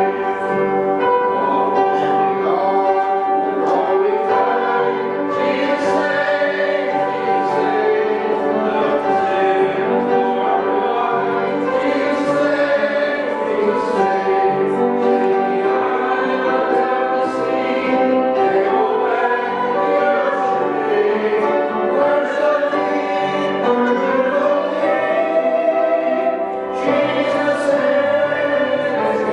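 A church congregation singing a hymn together, many voices carrying the melody over steady sustained accompaniment.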